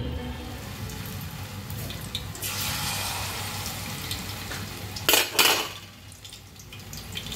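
Kitchen cooking noise: a steady hiss of food frying in a pan, with the clatter of pots and utensils and two short, loud bursts a little after five seconds in.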